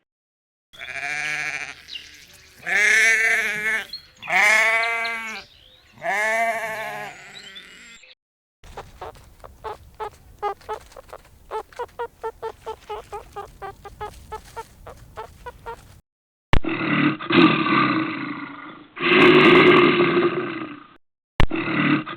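Bleating: four long, wavering calls in the first eight seconds. Then comes a quick, even series of short pulsed calls from another animal, about three a second. In the last five seconds three loud, harsh calls follow.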